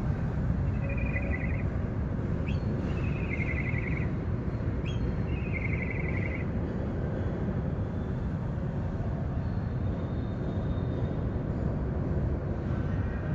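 A bird calling three times in the first half, each call a short rising note followed by a quick rattling trill that drops slightly in pitch, over a steady low rumble.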